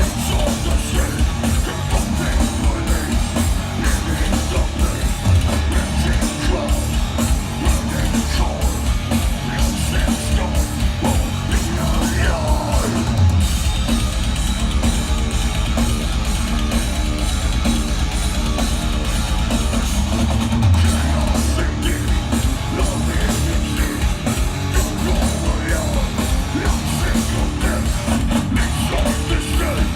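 Heavy metal band playing live at full volume, with fast, dense drumming and singing over it.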